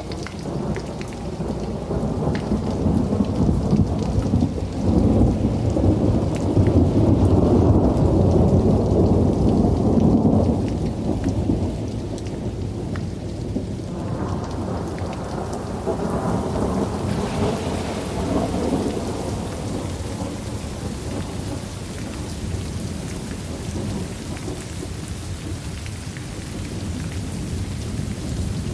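Thunderstorm: a long, low roll of thunder that swells about four seconds in and fades after ten, over steady rain that turns brighter and hissier later on.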